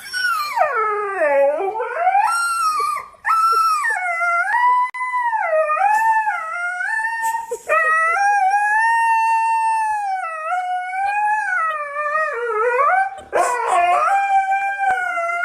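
A dog howling in a run of about five long, wavering calls, with short breaks between them. The pitch slides up and down within each call, and the first call dips low before it rises again.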